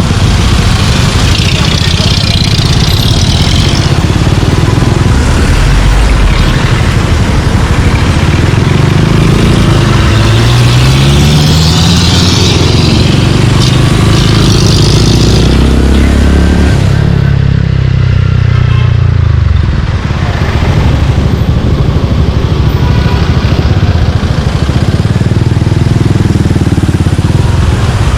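Suzuki Gixxer 155's single-cylinder engine through a Yoshimura exhaust, riding in city traffic. The engine note rises as it accelerates about ten seconds in and again a few seconds later.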